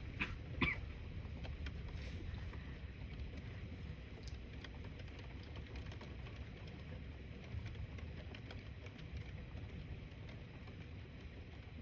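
Thunderstorm ambience: a steady low rumble of wind and storm noise, with scattered light ticks and two sharper clicks in the first second.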